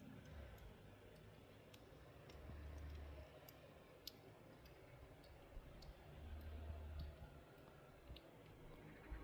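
Near silence with faint, irregular clicks and ticks and a low rumble that swells twice.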